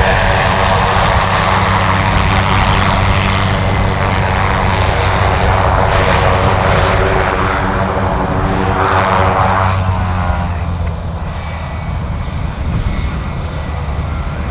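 Propeller aircraft engines running close by, a loud steady drone with a strong low pitch, easing off about ten seconds in as the aircraft moves away.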